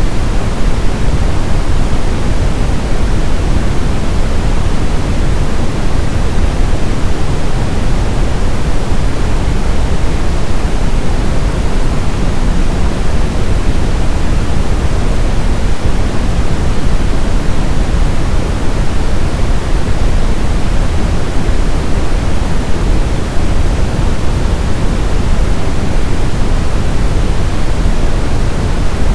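Brown noise: a steady, loud, deep rushing hiss, strongest in the low end and fading toward the highs, unchanging throughout.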